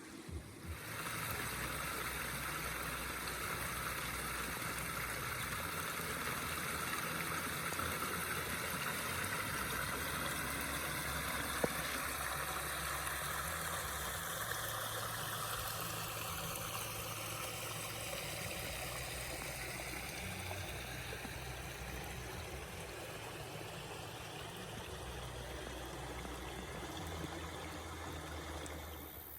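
Small creek waterfall: water pouring over rocks in a steady rush, which begins about a second in.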